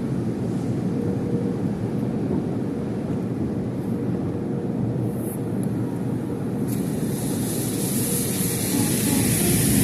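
Automatic car wash equipment running with a steady rumble. About seven seconds in, a high hiss of spray or air joins it and grows louder.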